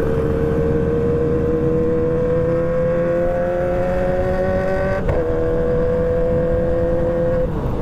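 Motorcycle engine running on the move, its note climbing slowly and steadily as the bike gathers speed, over a low rumble. A brief click comes about five seconds in, and the note falls away just before the end.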